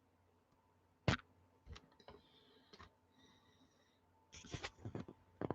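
Faint, scattered sharp clicks and taps: one crisp click about a second in, a few lighter ones after it, and a quick cluster of clicks near the end.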